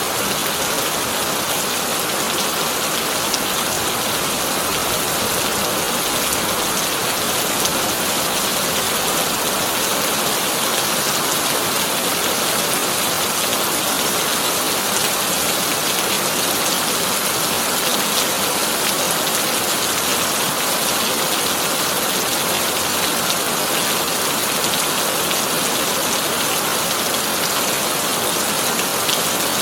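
Heavy rain drumming steadily on a corrugated tin roof: a dense, even hiss full of fine drop ticks.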